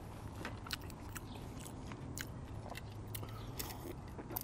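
Chewing of poutine (fries and cheese curds in gravy), close to the microphone: irregular soft mouth clicks and smacks.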